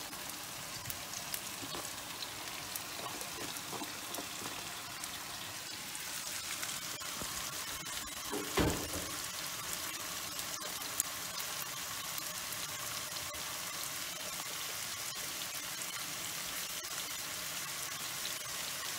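Broccoli florets frying in olive oil with onion and garlic in a frying pan, a steady sizzle that grows a little louder about six seconds in. There is one dull thump near the middle.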